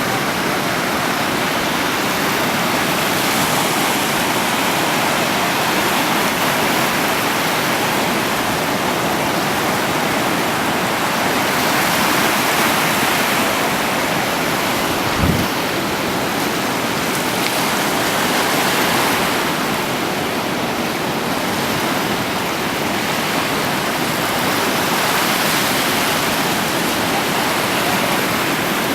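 Steady rushing of sea surf and moving water close to the microphone, swelling a few times, with one short low thump about halfway through.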